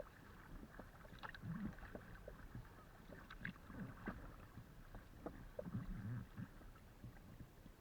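Kayak paddle strokes in the water, a low swish and splash about every two seconds, with small drips and ticks in between.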